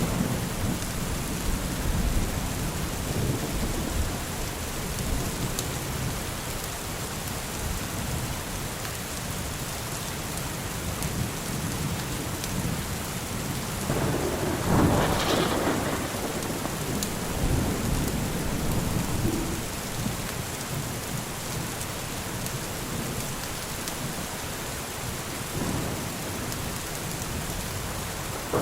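Steady rain with low rolling thunder throughout, and a louder roll of thunder about halfway through.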